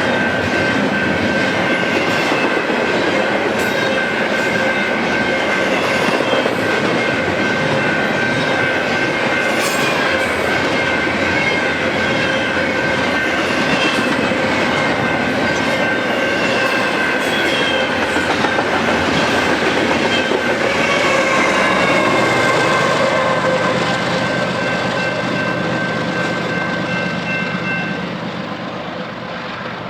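BNSF train rolling past at close range, its cars rumbling and wheels clicking over the rail joints, with a steady high squeal over the top. The sound eases off over the last few seconds as the train draws away.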